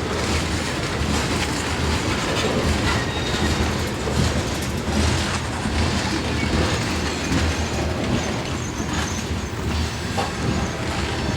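Freight train cars rolling past on the rails, with irregular wheel clicks and clacks over the track and, now and then, a faint high wheel squeal.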